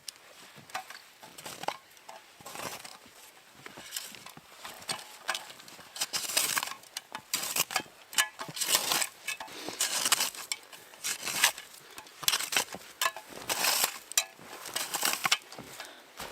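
Footsteps crunching through deep snow, a step about every second, getting louder in the second half.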